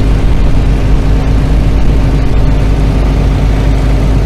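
Small gasoline engine of a water pump running steadily at constant speed.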